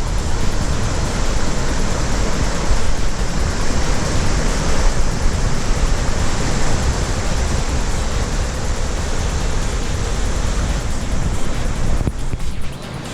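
Cascading mountain waterfall: a steady rush of falling water with a deep rumble underneath. It eases a little about twelve seconds in.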